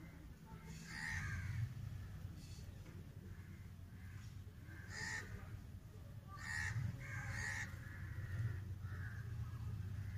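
Birds calling: a series of short calls a second or two apart, over a low steady hum.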